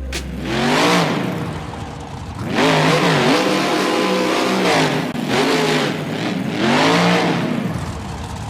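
A car engine revving up and easing off again and again, about four times, with a rushing noise under it.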